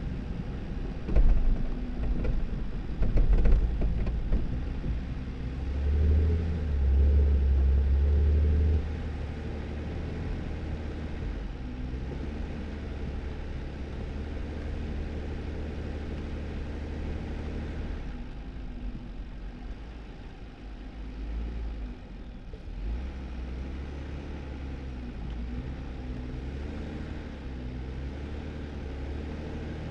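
2018 Jeep Wrangler driving on a snowy dirt road: steady engine and tyre noise, with a few knocks and jolts in the first few seconds and a louder low rumble from about six to nine seconds in.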